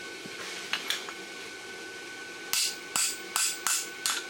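Hammer striking a hand punch through hot steel on an anvil, driving nail holes in a horseshoe: two light taps about a second in, then five sharp ringing blows in quick succession over the second half, above a faint steady high hum.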